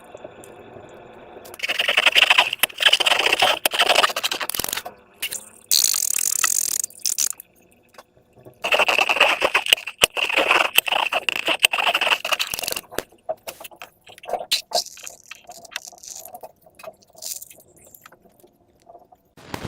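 Slime being handled and squished: two long stretches of wet crackling and scraping, with a short hiss between them and scattered quieter clicks near the end.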